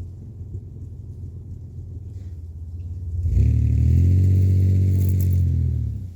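Off-road vehicle engine and exhaust running low and steady, then revving up loudly about three seconds in, its pitch rising and easing back, before dropping away near the end.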